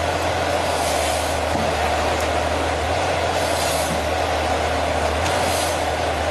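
Forestry harvester working, with its diesel engine and hydraulics running steadily. A few brief hissing swells rise over the drone.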